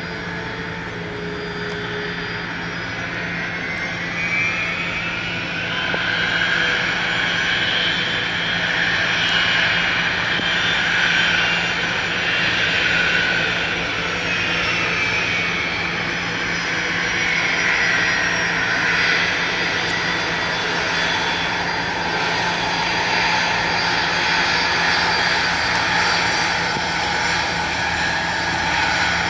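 Boeing 767 airliner's twin jet engines whining as it taxis in. The whine rises in pitch and gets louder a few seconds in, then falls back partway through.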